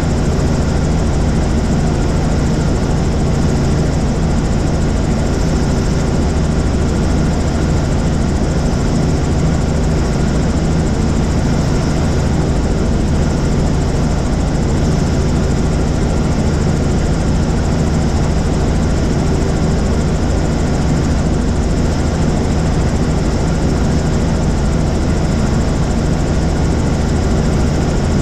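Helicopter in flight, heard from on board: the rotor and turbine make a loud, steady drone with a deep, even hum.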